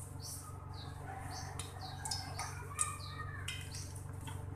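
A bird chirping: a run of short, high, downward-sweeping chirps repeated every half second or so, over a steady low hum.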